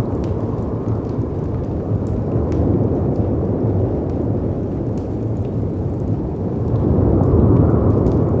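Layered storm ambience: a steady deep rumble of wind and sea surf that swells about seven seconds in, with a few faint sharp crackles from a fireplace.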